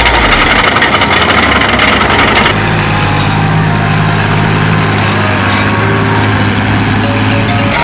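Diesel tractor engine running steadily while ploughing. About two and a half seconds in the sound changes abruptly to a steadier, lower engine hum.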